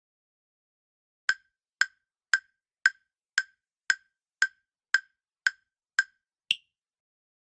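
Quiz countdown-timer sound effect: ten identical sharp ticks, about two a second, then an eleventh, higher-pitched tick that closes the count.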